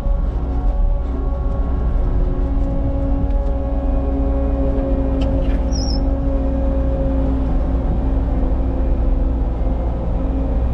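Cat 279 skid steer's diesel engine running steadily, its pitch holding fairly even. A brief high chirp sounds about six seconds in.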